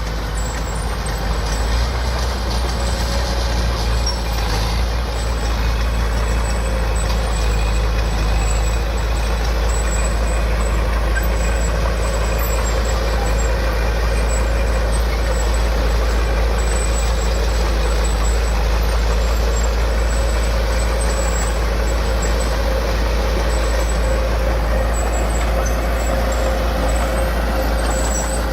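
Diesel engine of heavy earth-moving machinery running steadily at a constant load, with a deep rumble and a faint steady whine above it.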